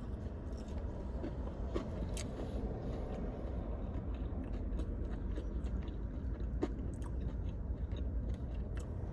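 Close-miked chewing of fast food, with small wet and crunchy clicks over a steady low hum.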